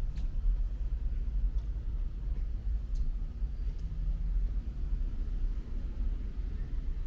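A low, uneven outdoor rumble with a few faint, sharp ticks scattered through it.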